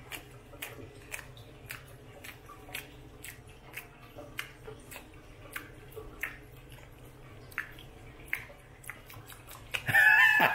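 A man chewing a mouthful of protein waffle close to the microphone: a regular series of mouth clicks and smacks, about two a second. Near the end he bursts out laughing.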